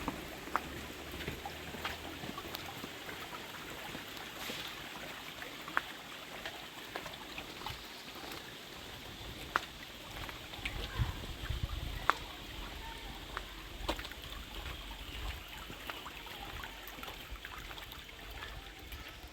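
Stream water trickling and flowing steadily, with scattered sharp little clicks and knocks throughout and a low rumble from a little past the middle.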